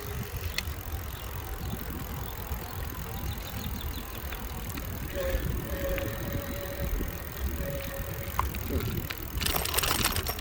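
Bicycle being ridden along a road: a steady low rumble of tyres and wind on the microphone, with a short burst of rapid rattling near the end.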